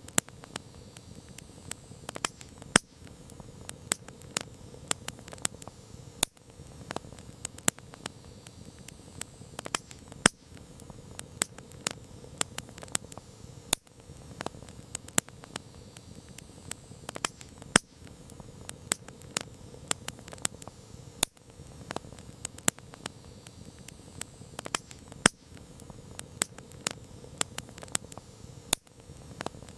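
Campfire of burning wood crackling: irregular sharp pops and snaps, several a second, over a steady soft hiss of the flames.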